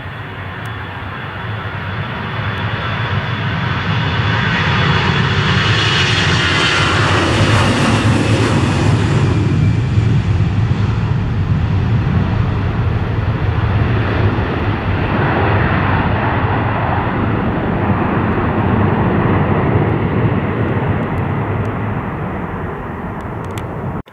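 Airliner's engines roaring as it passes close overhead, swelling to a peak with a whine that falls in pitch as it goes by, then a long sustained roar that cuts off suddenly at the end.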